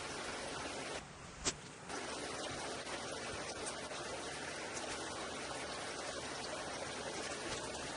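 Steady, even rushing noise. About a second in it drops away for roughly a second, with one sharp click in the middle of the drop.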